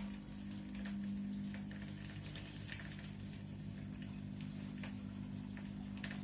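Washing machine running: a steady low motor hum with faint, scattered light clicks. A louder rushing noise stops right at the start.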